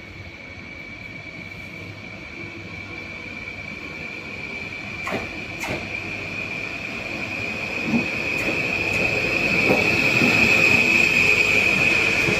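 A train coming closer on the station tracks, its wheels squealing in one steady high tone that grows steadily louder. A few sharp clicks from the rails come about halfway through.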